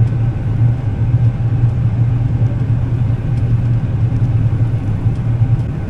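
Combine harvester running steadily under load while cutting wheat, heard from inside the cab: an even low drone from the engine and threshing machinery, with a faint steady whine above it.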